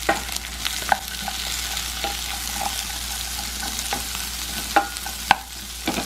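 Onions and peppers sizzling in a frying pan over high heat, with a utensil stirring and clicking against the pan a few times; the two loudest clicks come near the end.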